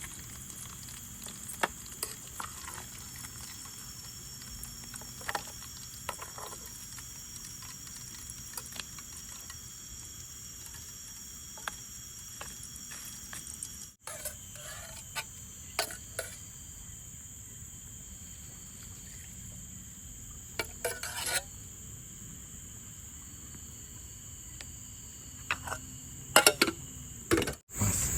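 Cooking-pot and utensil sounds, scattered clinks and scrapes of stirring food in a pot, over a steady high drone of crickets.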